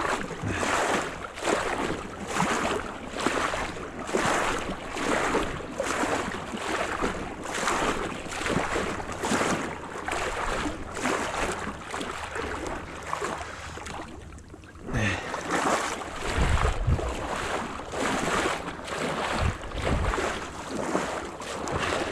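Rhythmic splashing strokes through water, about one every three-quarters of a second, breaking off briefly about fourteen seconds in. Low thumps of wind on the microphone come after the break.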